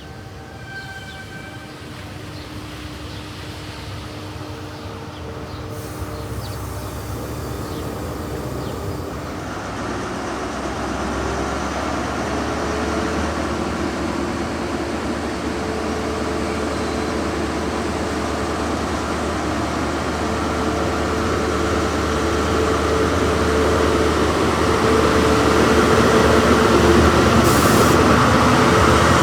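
A diesel train approaching, its rumble and engine hum growing steadily louder throughout, and loudest near the end.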